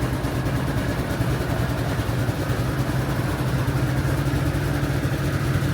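Honda Helix scooter's 250 cc single-cylinder four-stroke engine idling steadily moments after a cold start at 1°F (−17°C).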